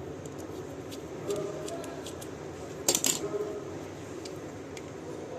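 Small metal parts clinking and clicking as screws and tap fittings are handled, with a short cluster of sharper clinks about three seconds in.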